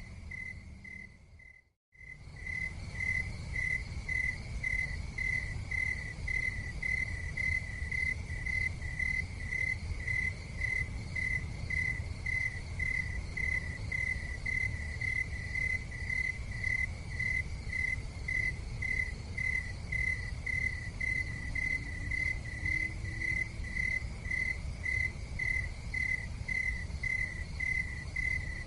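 A cricket chirping steadily, about two chirps a second, over a low rumbling background. The sound cuts out for a moment about two seconds in, then resumes.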